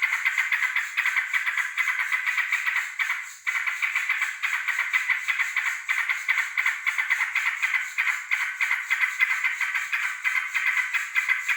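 Yellow-vented bulbul singing a continuous stream of rapid chattering notes, with one brief break about three and a half seconds in.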